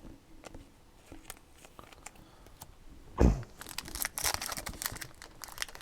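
Light handling clicks, a single thump a little after three seconds, then the crinkling and tearing of a foil trading-card pack wrapper being ripped open.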